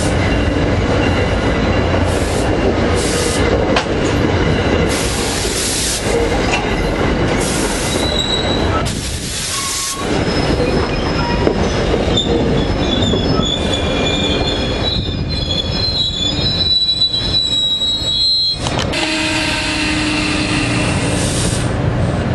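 Commuter train rumbling past on the rails, with high-pitched wheel squeal that comes and goes for several seconds through the middle.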